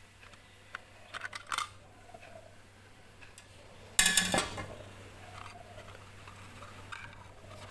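Hand-disassembly of a rechargeable LED bulb: a few small sharp clicks of plastic and metal parts being handled, then one loud clattering scrape about four seconds in.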